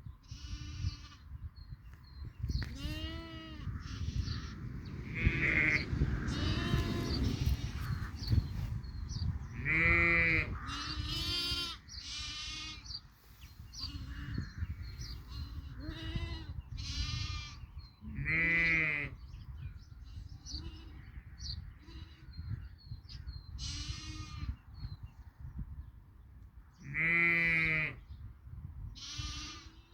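Sheep, ewes with their lambs, bleating again and again, about a dozen calls. Some are deeper, longer bleats and others are higher, thinner ones.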